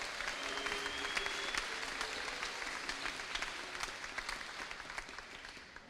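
Audience applauding in a hall, a dense patter of hand claps that fades out near the end.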